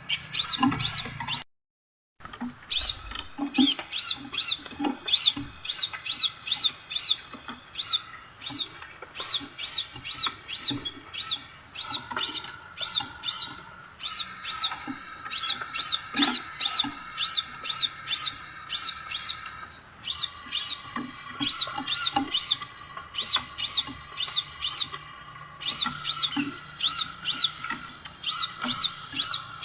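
Scarlet minivet calling: runs of short, high, clear chirps, several a second, with a brief dropout about two seconds in.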